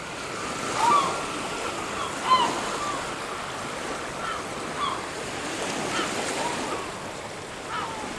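Steady surf washing on a beach, with birds giving short, curved calls about once a second over it, the loudest about a second in and again a little after two seconds.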